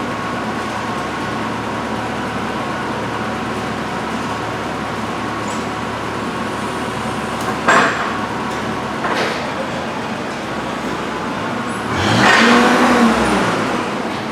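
Steady mechanical hum with two sharp knocks in the middle, then a louder rushing noise about twelve seconds in whose pitch rises and then falls.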